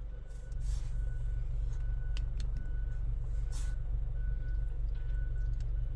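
A vehicle being driven, a steady low rumble of engine and road noise. Two brief hissing swells come about a second in and again at about three and a half seconds.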